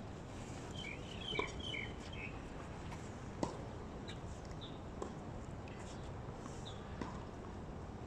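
Steady outdoor background noise with a short run of bird chirps about a second in, and a few sharp knocks spaced about two seconds apart, the loudest about three and a half seconds in.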